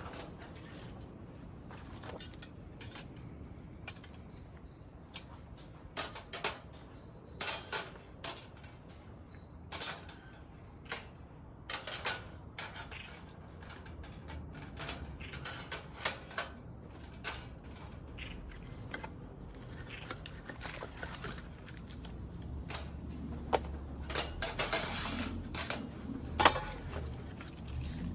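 Metal clinks and clanks from handling the parts of a folding campfire stand, coming irregularly every second or so, with the loudest clank near the end.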